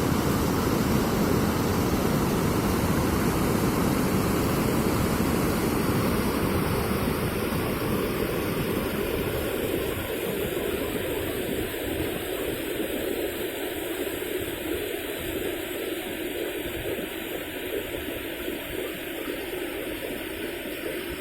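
Heavy water flow released from a dam, rushing steadily and growing gradually quieter over the second half.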